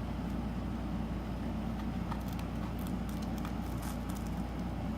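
Steady low background hum with a few faint, light scratches and clicks from about two to four seconds in.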